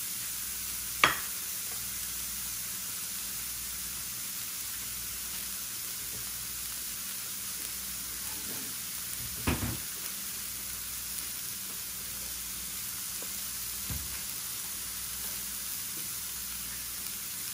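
Tofu, broccoli and mushrooms sizzling steadily in oil on an electric griddle, with three brief sharp knocks, the loudest about a second in.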